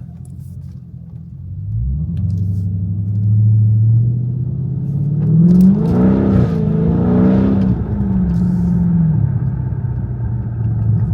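Dodge Challenger Scat Pack's 392 (6.4 L) HEMI V8 running. It gets louder about two seconds in, revs up twice in the middle and settles back to a steady rumble.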